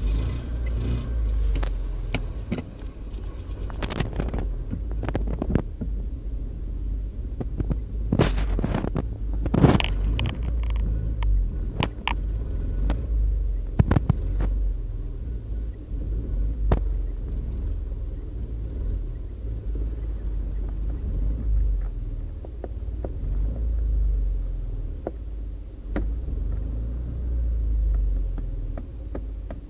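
A small car's 1.2-litre engine running, a deep rumble that swells and eases, with a few sharp clicks and knocks along the way, the loudest about ten seconds in.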